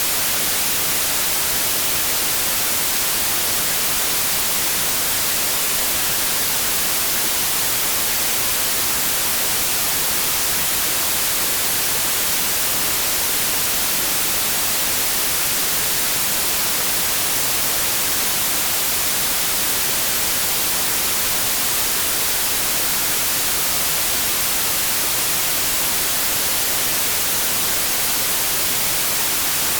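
Synthetic white noise: a steady, even hiss with no change, the same at every pitch and brightest in the treble.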